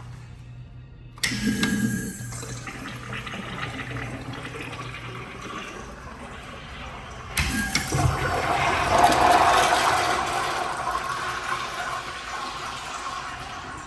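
Commercial Kohler restroom fixture flushing: a sudden rush of water about a second in, then a second, louder rush about seven seconds in that swirls and slowly dies away.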